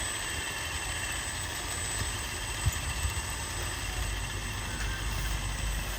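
Radio-controlled construction truck running, its small electric drive motor and gears whining steadily over a low rumble, with one sharp knock a little under three seconds in.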